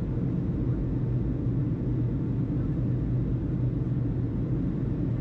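A steady low rumble with no radio transmission, even in level throughout.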